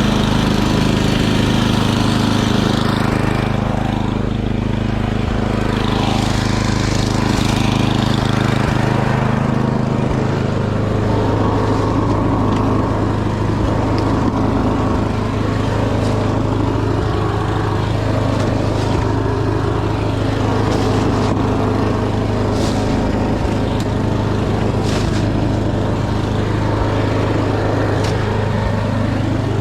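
Small gasoline engine running steadily under load, its note dropping and settling about ten seconds in.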